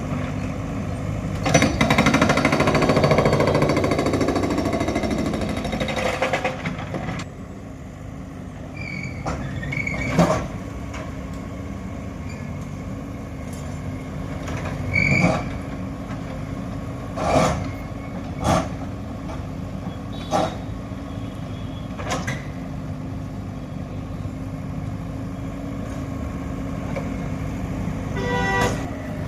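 A steady engine-like hum throughout. About a second and a half in comes a loud, noisy rushing stretch lasting about five seconds, followed by a string of sharp knocks spread over the rest.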